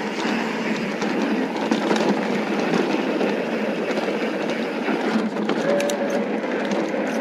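Mountain bike tyres rolling fast over a loose dirt and gravel fire road on a downhill run, a steady rumble with rattling. A few sharp ticks and a brief faint squeal come a little after five seconds in.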